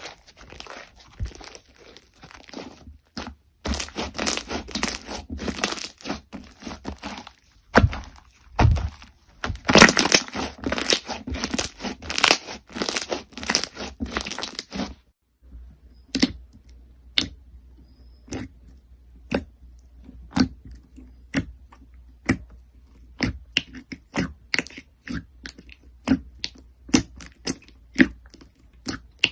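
Crunchy slime being squeezed and worked by hand: a dense run of crackling and crunching. About halfway through it changes to a sparser series of sharp clicks and pops.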